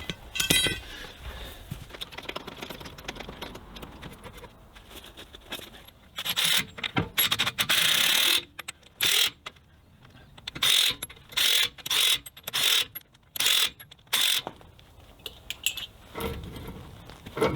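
A ratcheting mechanism clicking in about ten short bursts, starting and stopping, from about six seconds in.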